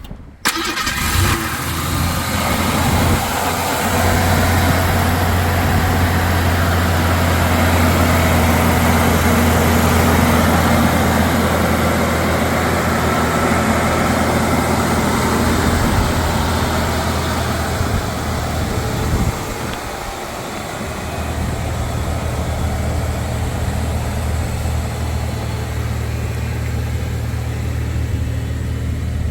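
1988 Ford Bronco II's 2.9-litre V6 catching on a cold start at the very beginning, then running at a fast cold idle. About twenty seconds in the idle drops and settles into a steadier, slightly quieter idle.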